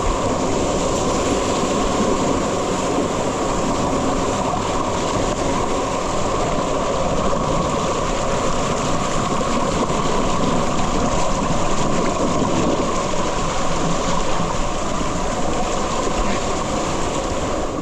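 Mountain waterfall and gorge stream pouring: a loud, steady rush of water.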